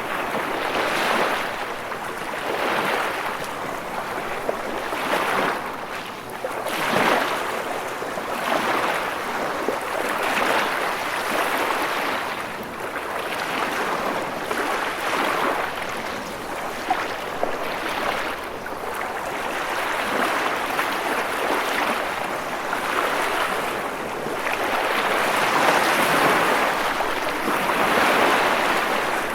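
Ocean waves breaking and washing up, a continuous surf noise that swells and ebbs every few seconds.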